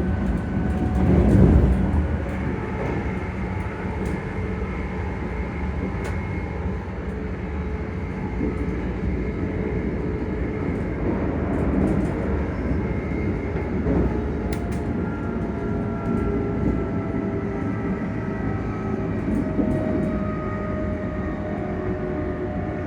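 ScotRail Class 385 electric multiple unit running, heard from inside the carriage. The traction motors hum and whine in several steady tones that drift slowly in pitch over a continuous low rumble of wheels on track, a little louder in the first two seconds.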